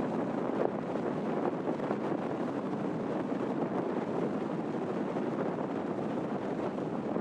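Strong gusting wind rushing across the microphone, a steady noise that swells a little now and then.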